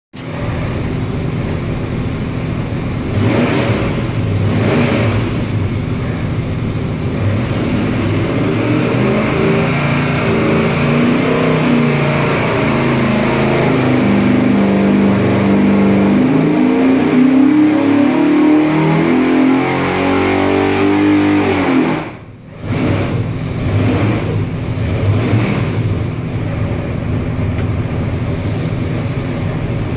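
632-cubic-inch big-block Chevrolet V8 airboat engine running on an engine dyno. After a couple of quick throttle blips, the engine note climbs steadily in pitch through a long dyno pull, then cuts off abruptly about two-thirds of the way through and drops back to a lower idle with a couple more blips.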